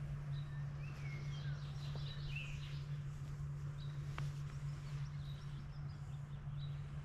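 Small birds chirping and calling in short whistled notes, most of them in the first half, over a steady low hum.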